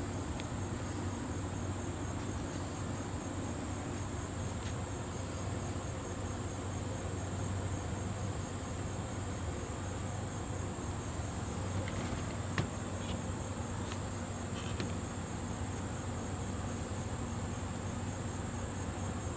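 Steady high-pitched trilling of an insect chorus, with a low background hum and a faint click or two about two-thirds of the way through.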